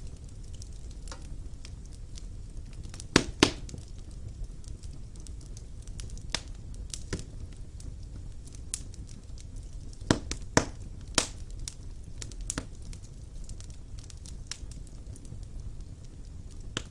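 Wood fire burning in a fireplace: a steady low rumble of the flames with irregular sharp crackles and pops, the loudest in quick pairs about three seconds in and around ten to eleven seconds in.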